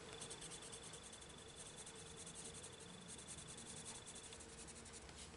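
Faint, rapid coloured-pencil strokes on paper as the pencil shades back and forth. A thin, steady high-pitched whine sits underneath and cuts off about four seconds in.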